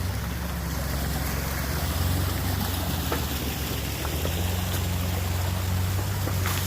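A vehicle engine running steadily at low revs under a steady hiss, with a few faint ticks.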